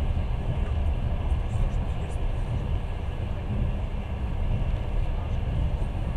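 Passenger train running at speed: a steady low rumble of wheels on the rails.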